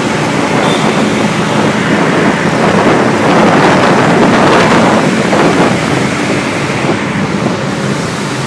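Wind rushing over the microphone of a moving motorbike, swelling loudest a few seconds in, with the bike's engine running beneath it and coming through again near the end.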